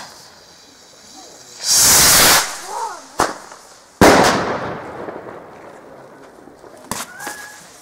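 Flash rocket launching with a loud hiss lasting under a second, followed about two seconds later by the sharp bang of its flash report, which fades away slowly.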